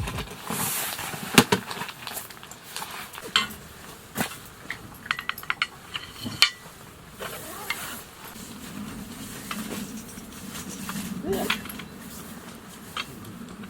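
Metal camp cookware and utensils being handled: irregular clinks and knocks, a few of them ringing briefly, over a faint steady hiss.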